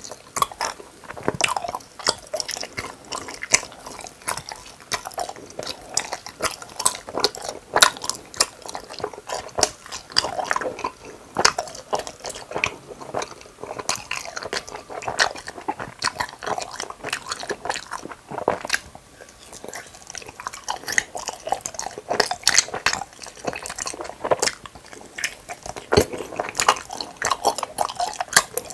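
Close-miked chewing and biting of gummy hamburger candies, heard as a dense run of small clicks and mouth smacks.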